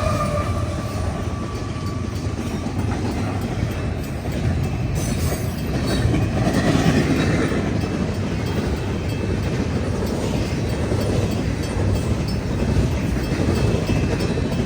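Freight train rolling past, a steady rumble with wheel clatter over the rails. In the first second the tail of a locomotive horn chord fades out, dropping in pitch as the engine moves away.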